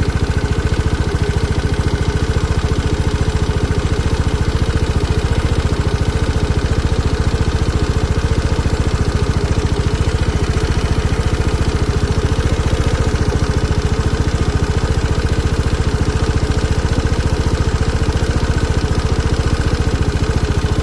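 SYM DRG scooter's single-cylinder engine idling steadily with an abnormal noise. The noise persists even after a warranty crankshaft replacement, and the owner does not know which part is at fault.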